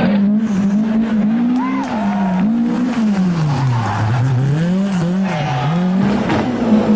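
Rally car engine revving hard, its pitch rising and falling repeatedly with throttle and gear changes, dropping lowest about four seconds in before climbing again.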